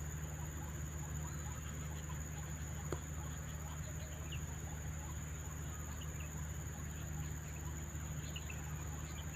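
Scattered short, high chirps of swiftlets feeding on insects, over a steady high insect drone and a low background hum, with a single sharp click about three seconds in.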